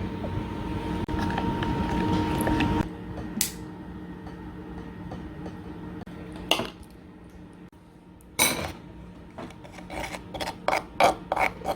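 Utensils clinking against dishes: a few separate clinks, then a quick run of them near the end, after a steady background that cuts off about three seconds in.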